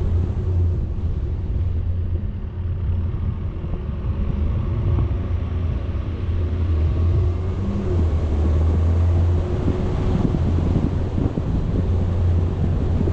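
A vehicle driving, with a steady low rumble of engine and road noise and wind buffeting the microphone.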